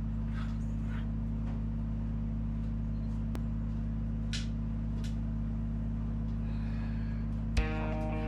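Mr. Heater forced-air propane heater running with a steady low hum. Near the end there is a thump as guitar music comes in.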